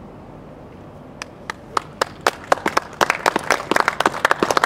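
Small crowd applauding. Scattered hand claps start about a second in and build into steady clapping.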